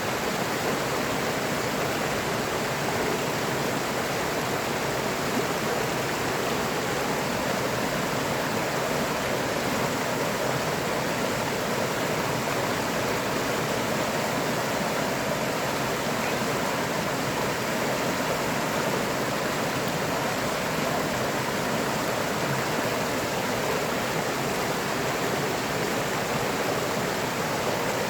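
River water rushing and burbling over rocks, a steady, even sound with no change.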